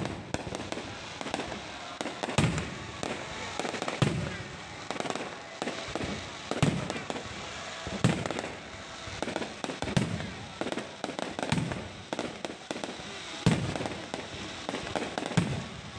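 Low-altitude fireworks going off in a continuous barrage: sharp bangs every second or two over a steady crackle and rumble.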